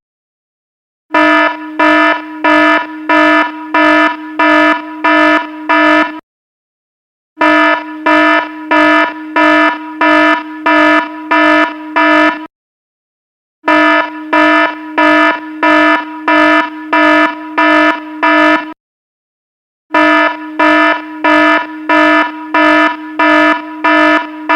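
Electronic alarm beeping: a harsh tone pulsing about twice a second in runs of about five seconds, each run broken by a pause of about a second.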